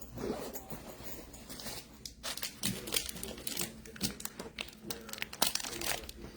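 Trading-card pack wrappers crinkling and tearing as packs are opened, in irregular crackles.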